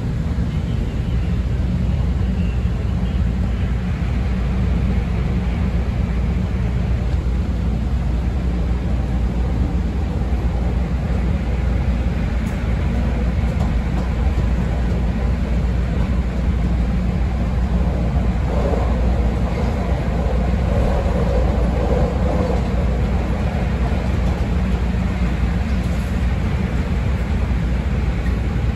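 CTA 5000-series rapid transit car running along the track, heard from aboard: a steady, loud, low rumble of wheels on rail and running gear.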